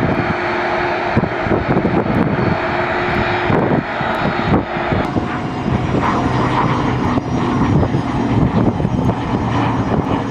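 Airliner engines running loud and steady close by, a noisy rush with a steady hum on top that steps down in pitch about four to five seconds in.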